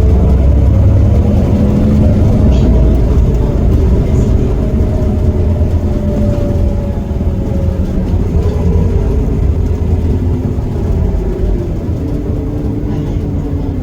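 Iveco Cursor 8 six-cylinder diesel of a Heuliez GX327 city bus running under way. Its pitch rises, drops around the middle, then climbs again, and it gets quieter near the end.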